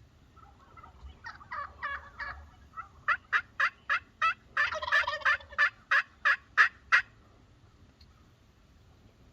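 Wild turkey calling: a few soft notes, then a run of loud, sharp yelps about three a second, with a rattling gobble in the middle, stopping at about seven seconds.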